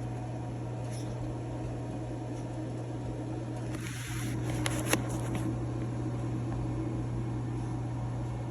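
A steady low mechanical hum, with a brief rustle about four seconds in and a sharp click just before five seconds.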